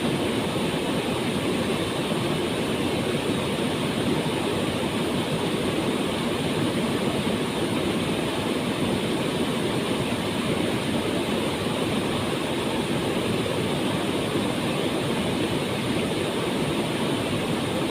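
Waterfall pouring steadily: an unbroken, even rush of falling water.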